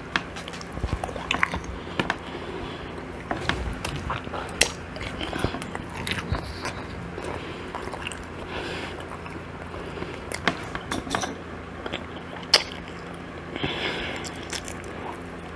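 A person chewing and biting food close to the microphone: chicken and waffles, with frequent small wet clicks and crunches.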